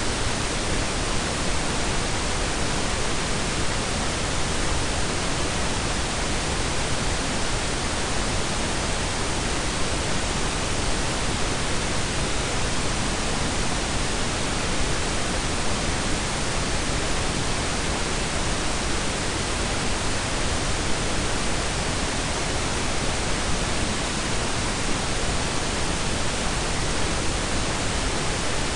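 Steady, unchanging blend of pink and brown noise: an even hiss with a deep rumble beneath it, spread across all pitches up to a cutoff.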